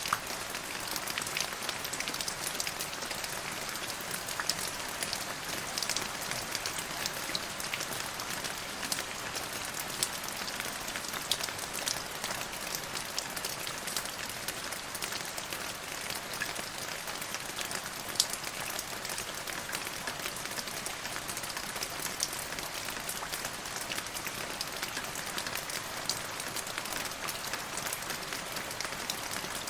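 Steady rain falling on a surface, an even hiss made up of many small drop impacts, with a few louder individual drops standing out.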